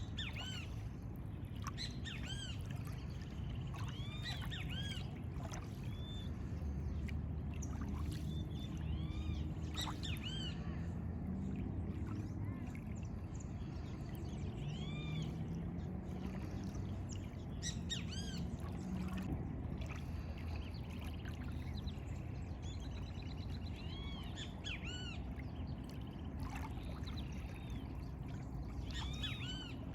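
Several birds chirping and calling in many short, arching notes, over a steady low rumble. A faint low hum comes and goes in the middle.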